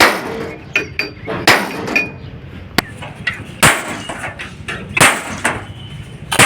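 Hammer blows on steel, sharp strikes with a short metallic ring, coming irregularly one or two a second, during fabrication work on a steel tractor trolley.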